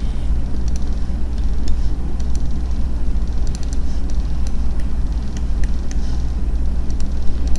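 Steady low rumble of background noise with scattered short, sharp computer mouse clicks.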